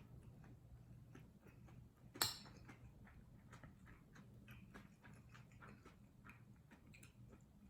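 Faint mouth sounds of someone chewing kimchi fried rice: soft wet clicks scattered throughout, with one sharp click a little over two seconds in.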